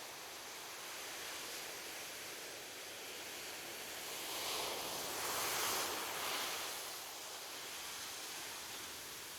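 Ocean surf: a steady wash of waves, with one wave breaking and swelling louder about halfway through before easing off.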